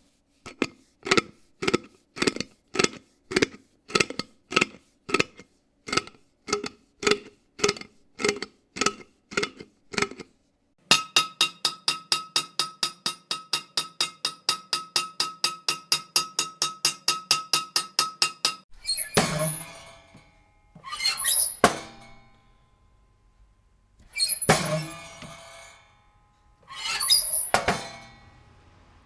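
A run of separate noises. First, knocking about twice a second for some ten seconds. Then a harsh buzzing tone pulsing about five times a second. Then four crashes with glassy clinking, a few seconds apart.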